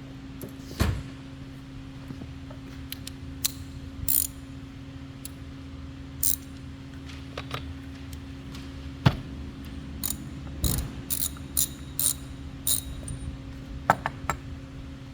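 Ratchet wrench clicking in short runs as a three-quarter-inch spark plug socket backs the spark plug out of the Echo GT225 trimmer's small two-stroke engine, over a steady low hum.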